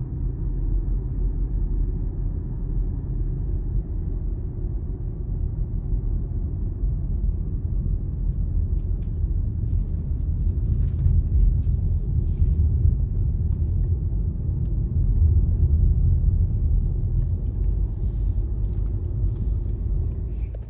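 Steady low rumble that grows somewhat louder through the middle and cuts off suddenly at the end, with a few faint clicks.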